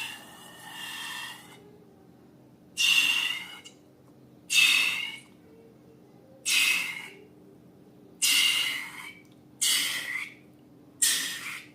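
Slime being squeezed and worked out of balloons: short wet hissing, squelching bursts, about one every second and a half.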